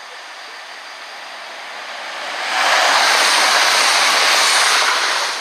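Train passing along the tracks: a rushing noise that swells about two and a half seconds in, holds, and fades near the end.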